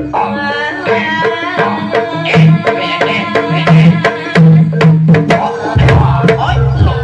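Jaranan ensemble music: rapid hand-drum (kendang) strokes over a repeating gamelan-style metallophone pattern, with a wavering higher melody line. The deep low layer drops out at the start and comes back in about six seconds in.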